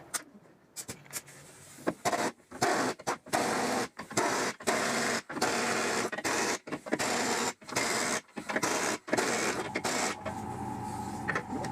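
A power tool run in many short bursts of a second or less, with brief pauses between them, during leaf-spring work on a Jeep XJ. A steadier hum with a few level tones sets in near the end.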